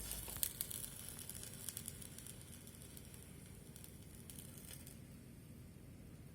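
Faint crackling and sizzling from potassium permanganate reacting with glycerin on a paper napkin as the reaction takes off and begins to smoke. The crackles come thick in the first two seconds, then thin out to scattered clicks.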